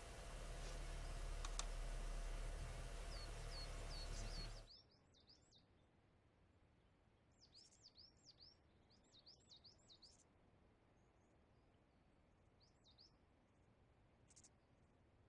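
A car running with a steady low rumble cuts off abruptly about four and a half seconds in. What remains is a quiet background with small birds chirping in quick groups of short sweeping notes, heard several times.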